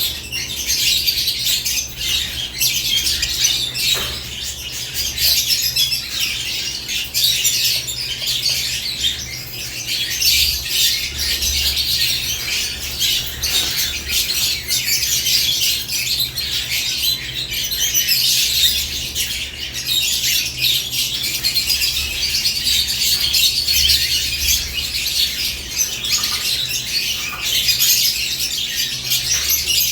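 Caged lovebirds chirping and chattering without pause in many overlapping high-pitched calls, over a steady low hum.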